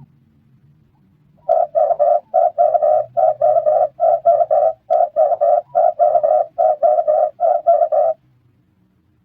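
Red turtle dove cooing: a fast run of short, low notes, about four a second in small groups, starting about a second and a half in and stopping near the end.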